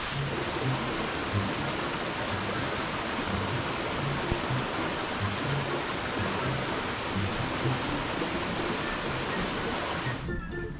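Steady rushing of a stream or waterfall, with background music underneath; the water noise cuts off abruptly near the end, leaving only the music.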